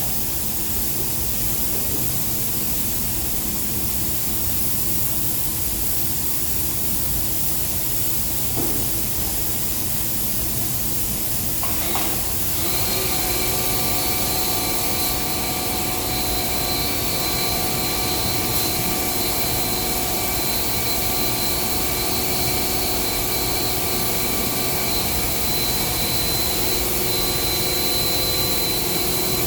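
Steady hiss of spray-painting equipment applying a silver-mirror coating, with a steady machine hum joining about twelve seconds in.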